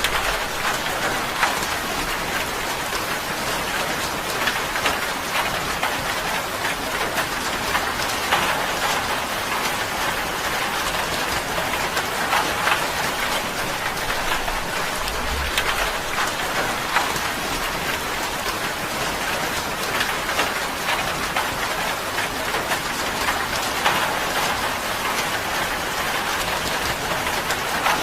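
Steady rain drumming on a tin roof, a dense even patter with many individual drops ticking through it.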